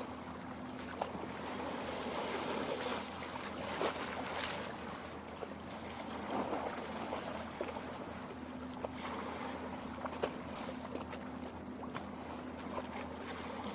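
Lake water lapping and trickling at the shore, a steady wash broken by many small splashes and drips.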